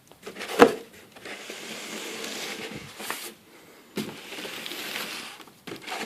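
Packaging being handled: a sharp knock about half a second in, then two longer stretches of rubbing and rustling as packing material is slid and pulled, with a few small clicks between.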